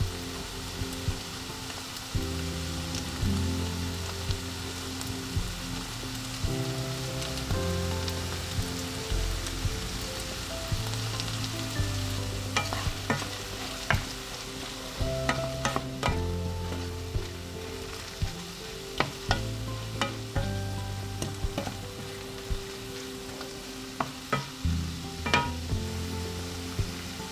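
Food sizzling in a frying pan. From about halfway in, a utensil stirring it clicks and taps against the pan.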